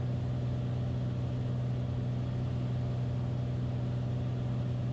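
Beechcraft Bonanza's piston engine and propeller droning steadily in the cockpit on final approach, at reduced approach power with the propeller set to 2500 rpm.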